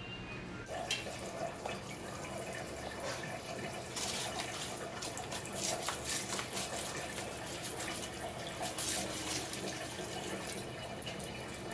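Water running and splashing, starting just under a second in, with irregular splashes and clatter from about four seconds on.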